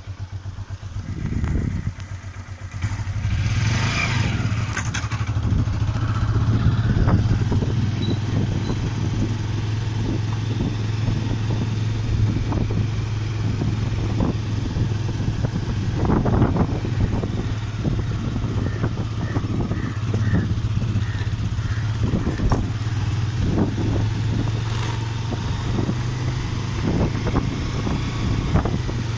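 Hero motorcycle's single-cylinder engine running steadily under way, heard from the rider's seat, with a low steady drone that grows louder about three seconds in as the bike picks up speed.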